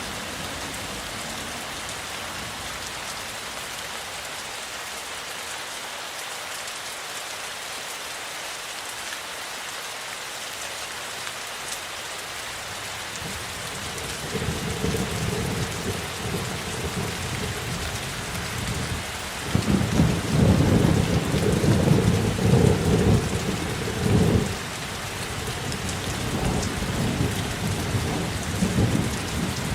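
Steady rain falling, with thunder that starts rumbling about halfway through and swells into a loud, rolling stretch for several seconds before easing off.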